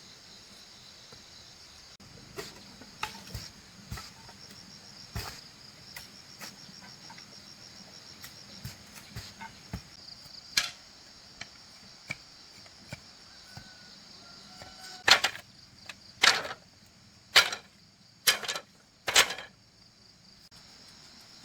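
Steady high trilling of insects, with scattered light knocks, then five loud sharp strikes about a second apart near the end.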